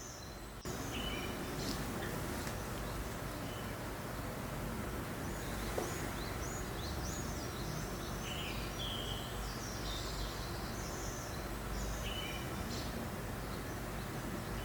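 Steady breeze noise with small birds chirping on and off throughout. The noise gets louder just under a second in.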